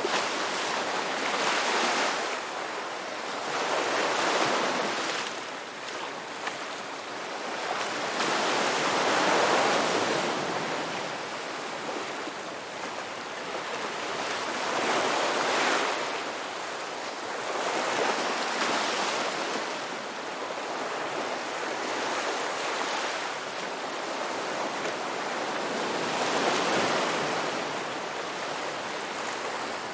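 Sea waves breaking and washing up on a shore, a steady rush of surf that swells and falls back every few seconds.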